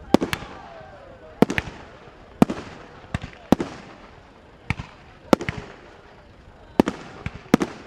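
Fireworks display: aerial shells bursting, about a dozen sharp bangs, some in quick pairs, each followed by a short fading echo.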